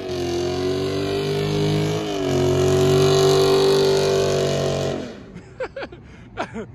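V8 muscle car engine at full throttle, accelerating hard after a launch. The pitch holds high, dips briefly about two seconds in, holds again, then fades away about five seconds in.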